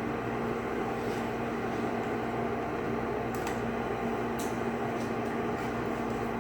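Steady kitchen appliance hum with an even hiss, and a few faint light clicks in the middle.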